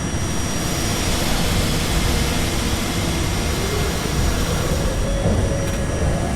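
R68A subway train pulling out of a station after its doors close: a steady rumble of traction motors and wheels on the rails, with a thin steady high whine above it.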